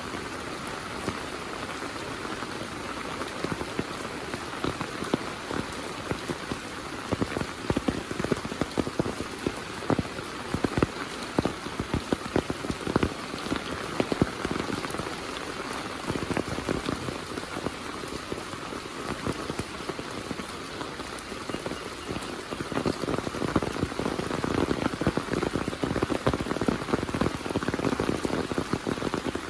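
Heavy monsoon rain falling steadily, with many close raindrop strikes that come thicker about a quarter of the way in and again near the end.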